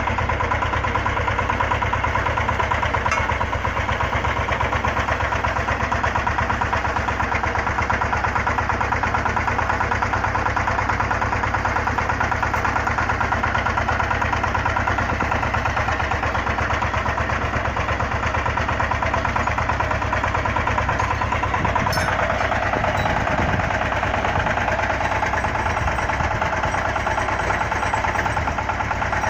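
A drilling rig's engine running steadily at a constant speed, its tone shifting slightly about three-quarters of the way through.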